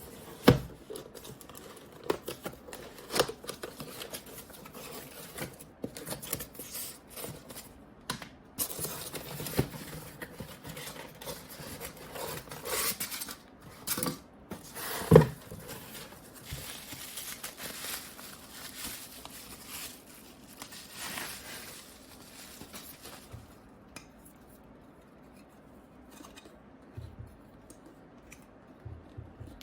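Objects being handled on a hard surface: scattered clicks, clinks and knocks with rustling between them, and sharp knocks about half a second in and about fifteen seconds in.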